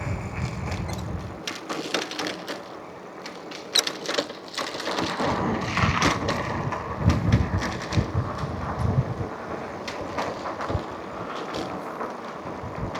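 Electric bike on the move: wind rumbling on the microphone in gusts, over road noise and frequent rattling clicks and knocks from the bike.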